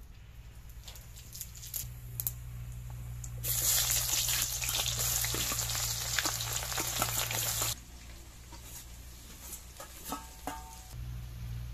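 Sliced onions and green chillies hitting hot oil in an iron kadai, sizzling loudly for about four seconds before cutting off abruptly. Before it, a few light crackles from the heating oil; near the end, a couple of metallic clinks from a steel plate lid.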